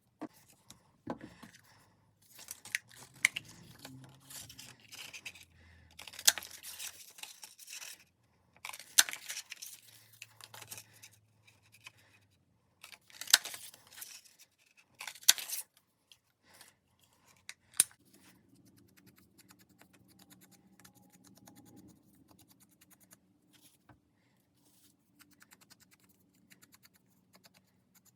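Craft paper being handled at close range: crisp paper noises and clicks come in bursts through the first half, then give way to quieter handling over a faint steady low hum.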